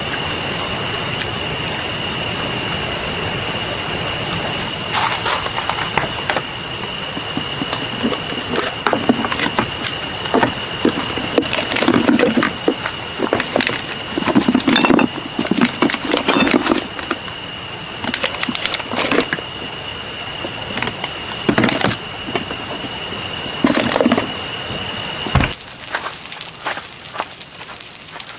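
A steady hiss with a thin, constant high whine. Irregular knocks and clatters join it about five seconds in. The whine and hiss cut off suddenly near the end.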